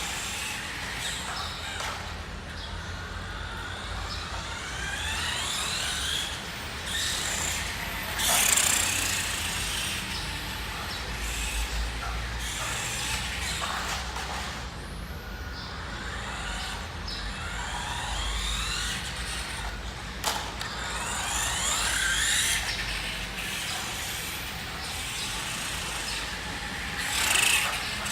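Electric drive motor and gears of a Nikko 1:5 scale RC Ducati motorcycle whining, the pitch rising and falling again and again as it speeds up and slows down, with its just-repaired transmission in use. A couple of brief loud rushes of noise stand out, one about a third of the way in and one near the end, over a low rumble.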